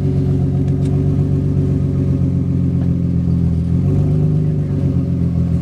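Nissan 350Z's 3.5-litre V6 idling steadily just after being started.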